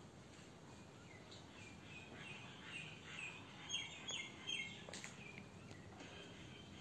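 Faint chirping of a small bird: a quick series of short, high chirps that slide down, between about one and five seconds in, over quiet room tone. A single soft click comes near the five-second mark.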